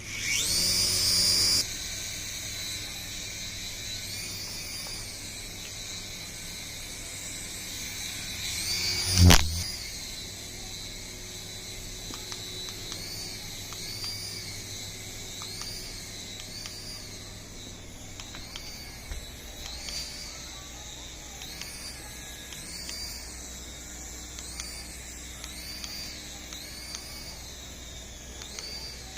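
Small electric motors and rotors of a 3.5-channel toy RC helicopter whining as they spin up, then running on with the pitch rising and falling about once a second as the throttle is worked. A single sharp knock about nine seconds in is the loudest sound.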